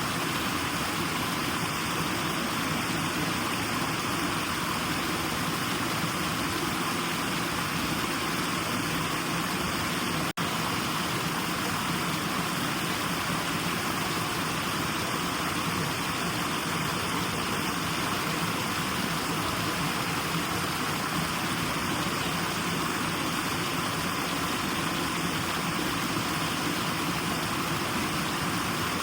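Steady white noise, a constant even hiss with no rhythm or changes, broken only by a split-second dropout about ten seconds in.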